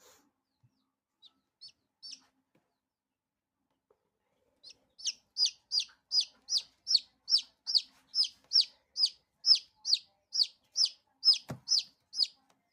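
A pet chicken peeping: a few faint high peeps, then about five seconds in a fast, even run of loud, short, high-pitched peeps, about three a second, each sliding slightly down. One sharp click near the end.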